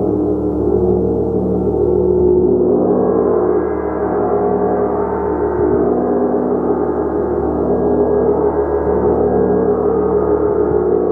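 Gong played continuously, a loud, steady wash of many overlapping ringing tones with a slow pulsing in the low end and no single strike standing out.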